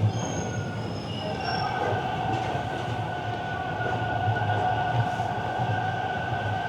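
Toronto subway train moving at the platform, with a steady rumble and a high, steady whine or wheel squeal that sets in about a second in.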